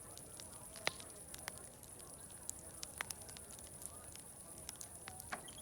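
Crackling wood fire: irregular sharp pops and snaps, the loudest about a second in and again near three seconds, over a faint murmur of distant voices and a steady high hiss.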